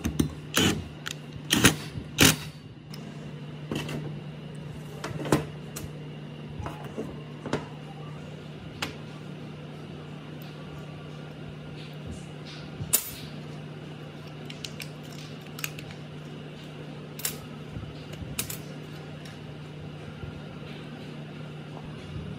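Scattered sharp clicks and knocks of hand work on small parts over a steady low hum. A cluster of loud knocks comes in the first few seconds, then sparser, lighter clicks follow.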